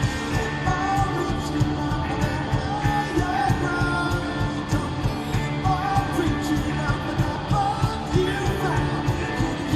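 Live rock band playing a song with a singer, electric guitars and drums keeping a steady beat.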